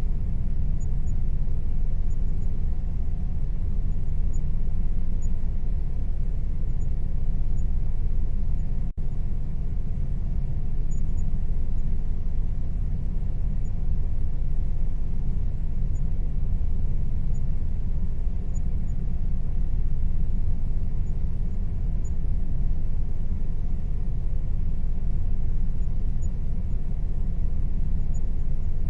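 Air conditioner running: a steady low rumble with a faint, even hum above it. The sound cuts out for an instant about nine seconds in.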